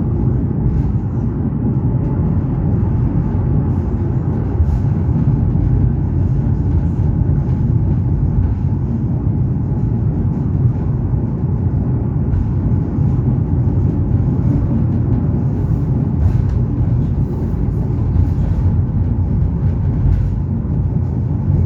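Train running steadily with a continuous low rumble, as heard while riding on it, with a few faint clicks over the top.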